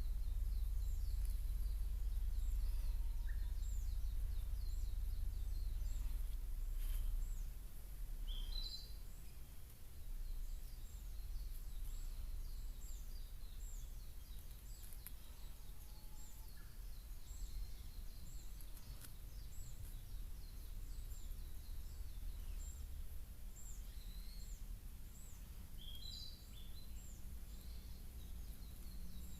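Outdoor ambience: small birds chirping over and over, high and short, above a low rumble that is heavier for the first several seconds.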